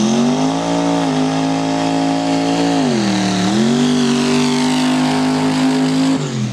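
Car engine accelerating hard. Its pitch climbs, drops briefly about halfway through, rises again, then cuts off just before the end.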